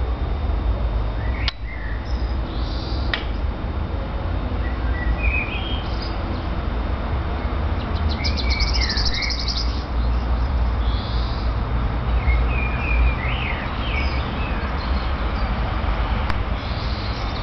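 Small birds chirping and twittering on and off, short high calls repeated throughout, over a steady low rumble, with a sharp click about one and a half seconds in.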